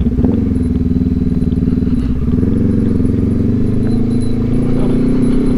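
Motorcycle engine running under way, its pitch rising and falling as the throttle opens and eases.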